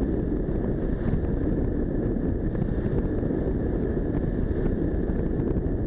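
Cafe 400 motorcycle's single-cylinder engine running steadily while riding, with wind rushing over the microphone.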